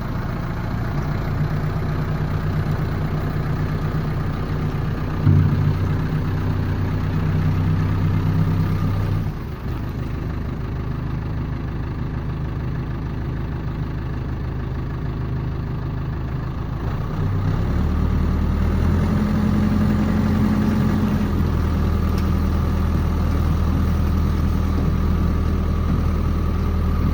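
A heavy vehicle engine running steadily, its pitch and load stepping up and down a few times, with a short louder jolt about five seconds in.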